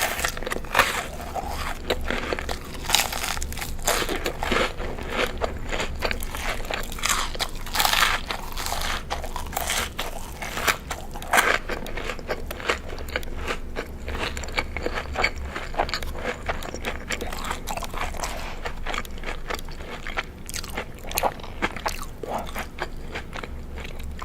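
Crunchy food bitten and chewed close to the microphone: a dense, irregular run of crisp crunches and crackles.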